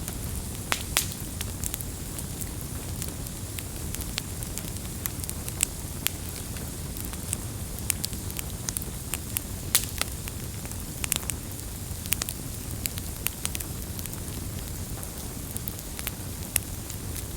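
Campfire of burning wood crackling: irregular sharp pops and snaps scattered over a steady low rumble of the flames.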